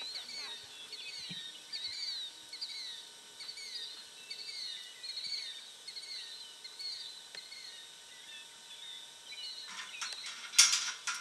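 Small birds chirping over and over, short calls at about two a second. Near the end comes a burst of loud, sharp metallic clacks as the steel pipe gate is handled.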